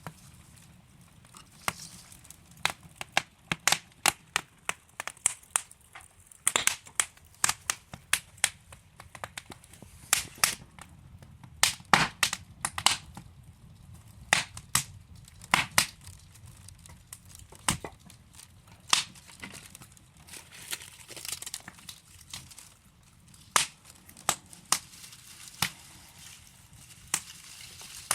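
Wood fire burning in a fireplace, logs crackling with many sharp irregular pops over a soft steady hiss. The pops come thickest in the middle stretch.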